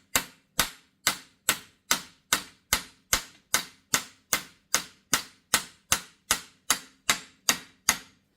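Hammer tapping a universal joint bearing cap into the yoke to seat it: a steady run of about twenty sharp metallic taps, roughly two and a half a second, stopping near the end.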